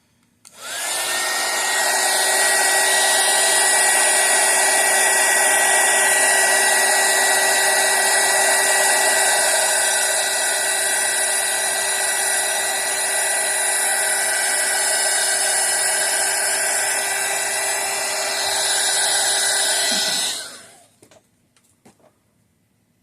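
Craft heat gun running steadily for about twenty seconds, a blowing rush with a steady motor-and-fan whine that rises briefly as it starts up and cuts off near the end. It is being used to pop bubbles in a freshly poured layer of epoxy resin.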